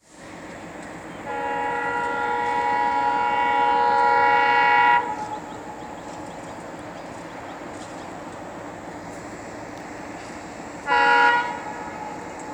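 Indian train's horn sounding a multi-tone chord in one long blast of about four seconds, then a short blast near the end, over the steady rumble of the train.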